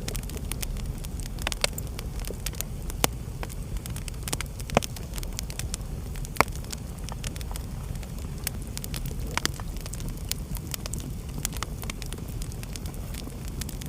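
Wood fire burning in a fireplace: a steady low rumble of flames with frequent irregular crackles and sharp pops, the loudest a few seconds apart.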